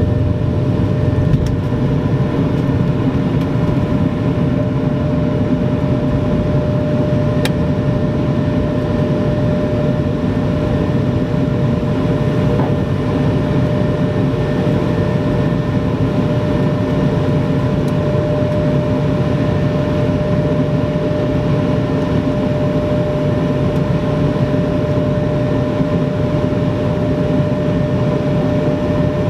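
Steady drone of an Airbus A220-300's Pratt & Whitney PW1500G geared turbofan engines heard inside the cabin, a deep rushing noise with a steady whine held on one pitch.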